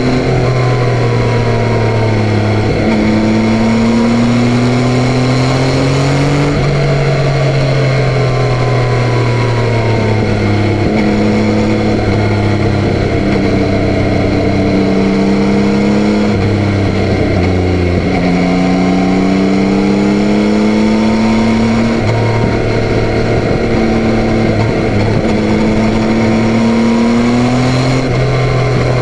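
Yamaha Tracer 9's 890 cc three-cylinder engine pulling under way. Its note climbs slowly and then drops back several times as the rider changes gear.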